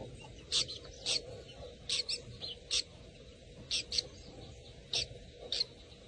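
Small bird chirping: about ten short, high-pitched chirps, some in quick pairs, spaced unevenly over faint background hiss.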